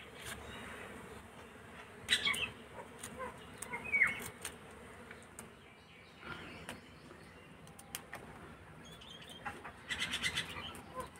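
Small birds chirping: a few short chirps, then a quick chattering run near the end. Faint clicks and rustles of kohlrabi leaf stems being cut with a knife.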